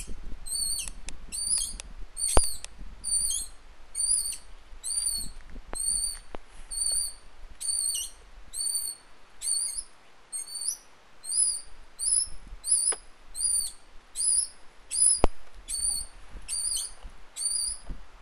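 A bird's high, thin call, repeated steadily a little more than once a second, with a few sharp clicks in between.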